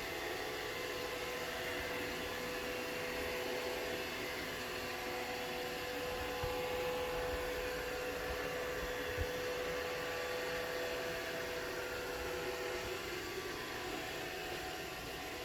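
Roomba robot vacuum running as it tries to settle onto its charging dock: a steady whir with a faint held tone, and two soft low thumps around the middle.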